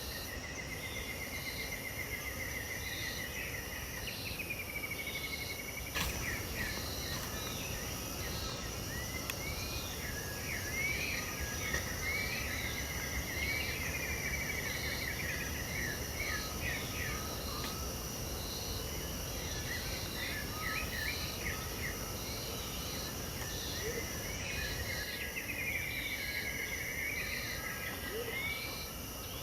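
Dawn chorus of Pantanal birds: trilled and slurred song phrases come and go over a steady high drone of insects, with a short note repeated about once a second. A single sharp click about six seconds in.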